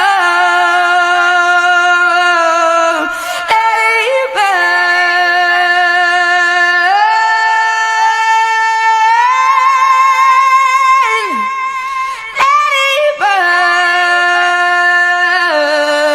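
A woman singing long, held, wordless notes that step and slide between pitches, with short breaks for breath between phrases.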